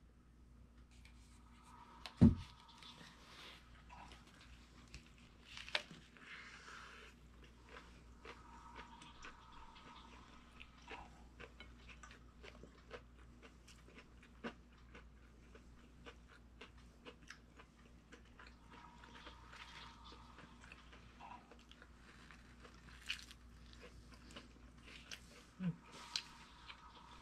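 Close-up chewing and biting of a chicken sandwich, with small wet mouth clicks and smacks throughout. A single heavy thump about two seconds in is the loudest sound.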